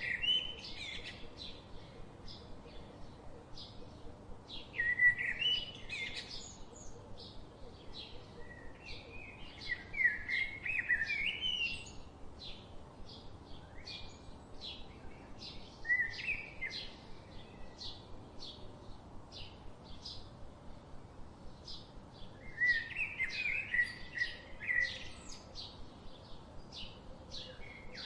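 Birds singing: short warbling phrases come every few seconds, with the loudest near the start, at about five seconds, around ten to twelve seconds and again near the end. Underneath runs a steady series of short, high chirps, about two a second.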